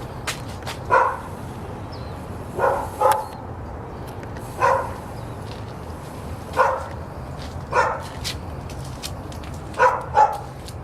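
A dog barking: eight short barks spaced a second or two apart, twice in quick pairs, over a steady low rumble.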